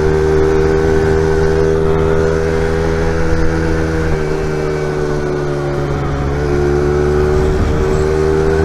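Honda XR70R's small single-cylinder four-stroke engine running hard at high revs as the pit bike rides at road speed, with a low rumble of wind and road noise. The engine's pitch sags a little about halfway through, then climbs back.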